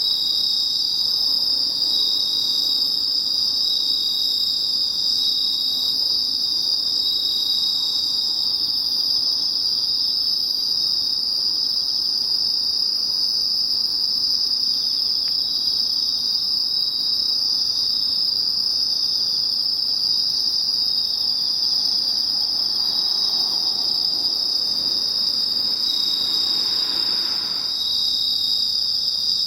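Night chorus of autumn insects, Japanese bell crickets (suzumushi) and field crickets, singing steadily and high-pitched, with one voice pulsing in a repeating rhythm over the continuous trilling.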